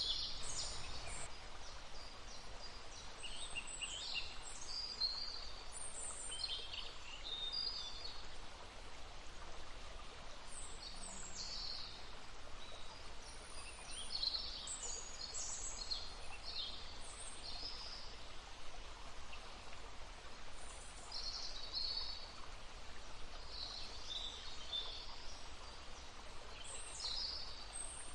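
Songbirds chirping and singing in short, repeated phrases over the steady rush of a babbling stream.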